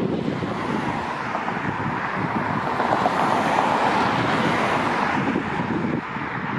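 Outdoor road traffic noise mixed with wind on the microphone, a steady rush that swells in the middle as if a vehicle passes.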